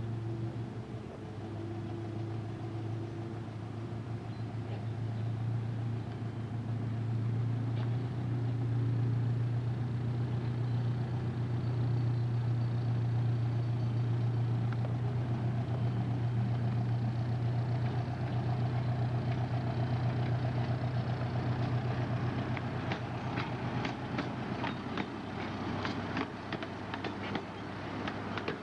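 Park ride train's engine running with a steady low hum, then rattling clicks and creaks from the cars and rails setting in about three-quarters of the way through as the train rolls along.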